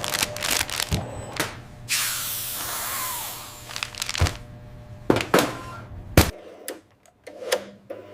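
A run of sharp clicks and knocks, with a hiss lasting about a second and a half starting about two seconds in. A low hum underneath stops abruptly about six seconds in.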